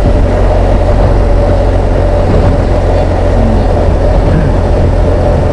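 BMW R1200GS Adventure's boxer-twin engine running steadily while riding, with wind noise, heard from a helmet-mounted camera.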